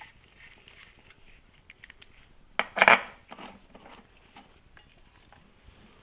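Small metal parts and hand tools clinking during work on a motorcycle engine's oil pan bolts, with a louder metallic clatter a little under three seconds in.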